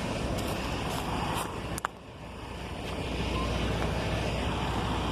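Wind rumbling on a phone's microphone, with a single sharp click about two seconds in.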